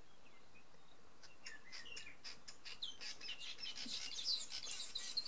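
Birds chirping: a few faint chirps at first, then from about a second in a busy mix of quick high chirps and short whistled sweeps that grows denser toward the end.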